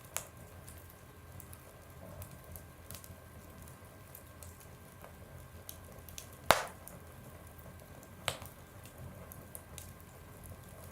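Fire burning in a stove, crackling: a low steady rush with many small ticks and three sharp pops, the loudest about six and a half seconds in.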